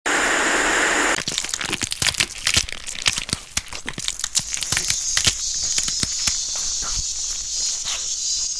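Horror sound effects of cracking and tearing: a short noisy rush, then a dense run of irregular sharp cracks and crackles, with a steady high-pitched buzz rising underneath from about halfway.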